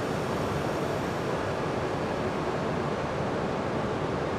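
E5 series Shinkansen train rolling past an underground station platform as it arrives, a steady rushing noise with no distinct tones or knocks.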